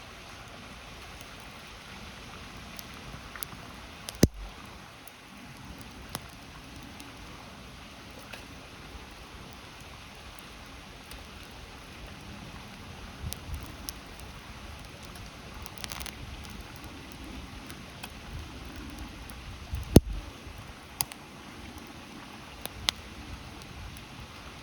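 Wood campfire crackling, with scattered sharp pops (the loudest about 20 seconds in), over the steady rush of a river.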